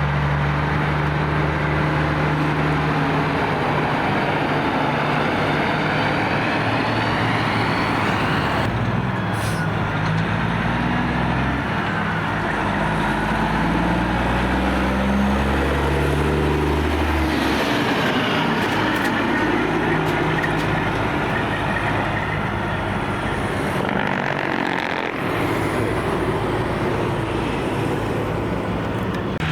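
Heavy diesel semi-truck engines running, with road traffic noise; the engine note shifts a couple of times as trucks move through.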